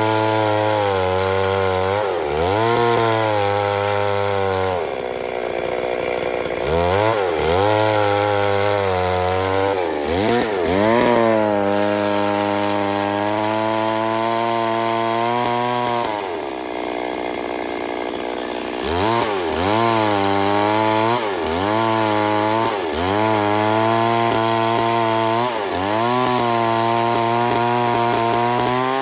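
Two-stroke chainsaw cutting wood at high revs. Its pitch dips and climbs again and again as the throttle is eased and squeezed. Twice it drops back to a quieter idle for a couple of seconds, about five seconds in and again after about sixteen seconds.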